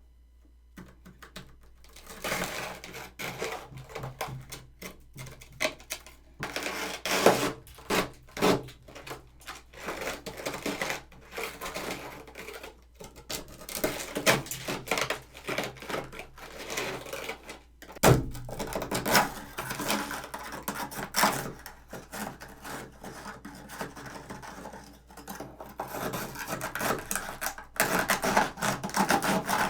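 Built-up freezer frost being dug and scraped out of the bottom of a freezer: an irregular run of crunchy scrapes and sharp clicks, starting about two seconds in.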